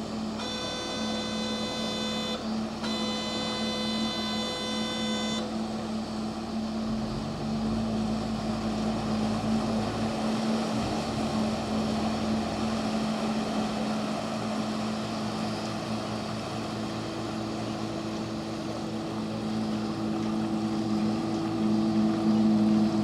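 Passenger boat's engine running with a steady hum, getting louder near the end. Near the start a high, steady tone sounds twice, each about two seconds long.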